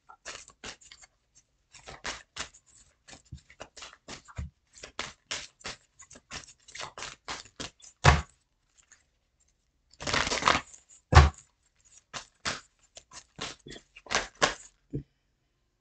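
Tarot cards being handled and shuffled: many small irregular snaps and rustles, a longer rustle about ten seconds in, and two heavier taps of cards set down.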